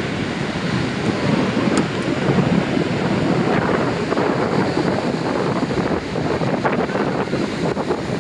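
Heavy ocean surf breaking and rushing, with wind buffeting the microphone.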